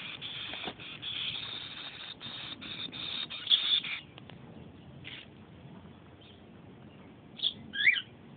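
Baby bird: about four seconds of scratchy rustling, then a few short high cheeps, the loudest two close together near the end, one sliding down in pitch.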